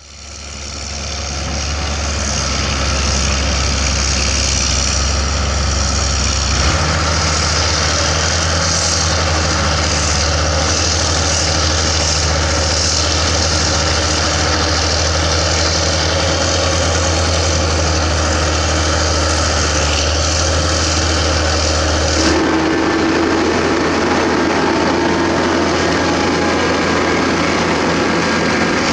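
Heavy diesel earthmoving machines, crawler excavators and bulldozers, running steadily, with the engine sound changing abruptly about a quarter of the way in and again about three quarters of the way in as one machine's sound gives way to another.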